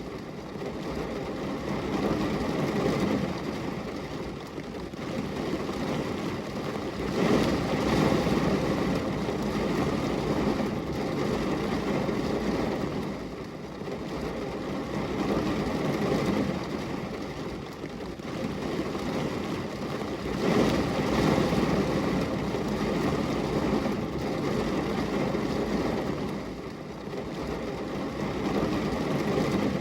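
Rain falling on window glass: a dense, even rush of noise that swells and eases every several seconds.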